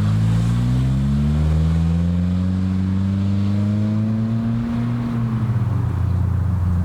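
Car engine accelerating, its pitch rising steadily for about four seconds, then dropping as the throttle eases and settling into a steady low drone.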